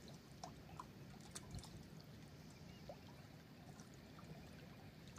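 Near silence: faint trickling, lapping water with a few small scattered clicks.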